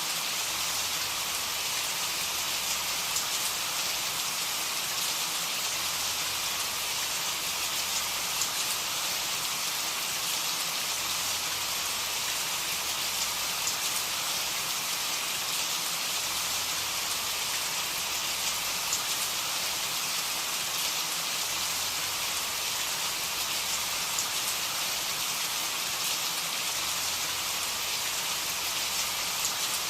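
Steady rain falling on a surface: a dense, even hiss of drops with fine patter throughout and no thunder.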